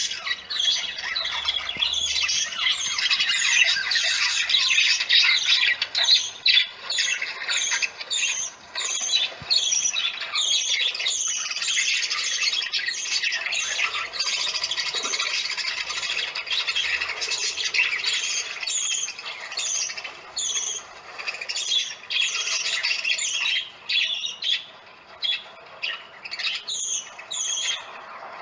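A flock of parakeets screeching, a dense chorus of many overlapping harsh calls that thins out a little near the end.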